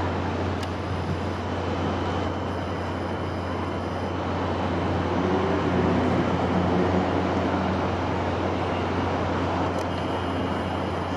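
Steady wind noise: a continuous even rushing with a low rumble underneath, swelling slightly about halfway through.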